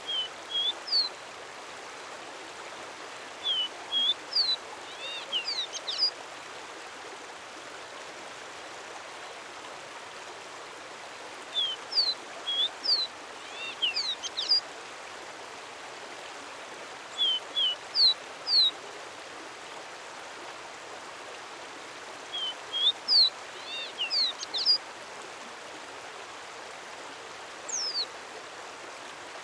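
A songbird sings short phrases of quick, high whistled notes, some rising and some falling, in a bout every five or six seconds. Under it runs a steady rush of running water.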